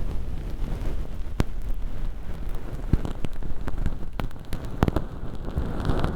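Crinkly hologram-film fake earwax crackling and rustling as it is picked at and peeled with tweezers inside a silicone ear model close to the microphone, with a low rumble and a few sharp clicks scattered through.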